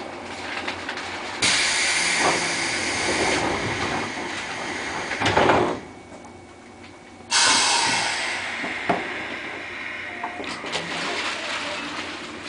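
JR 201 series electric train heard from its driver's cab, running along the line. A loud hiss cuts in suddenly about a second and a half in, there is a short loud rush around five seconds, and after a quieter pause a second loud hiss starts suddenly and fades away.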